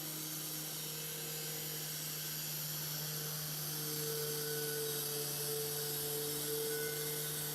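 Steady hum of a small electric motor running, with a fainter higher tone that wavers and grows a little stronger about halfway through.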